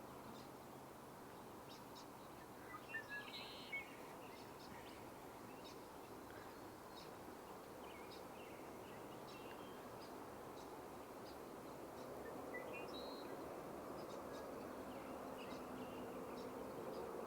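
Faint outdoor background with scattered short bird chirps and high ticks; a small cluster of chirps comes about three seconds in and another near thirteen seconds.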